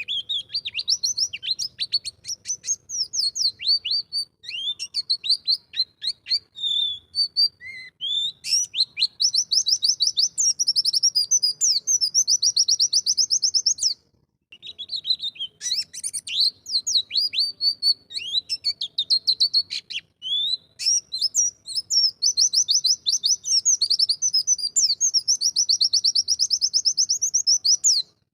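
White-eye (pleci) singing a long run of fast, high chattering song, each phrase building into a rapid even trill. The song breaks off briefly about halfway through and again about two-thirds of the way in.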